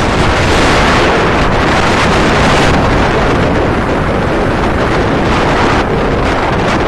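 Strong wind buffeting the microphone over the steady rush of sea waves breaking on the shore.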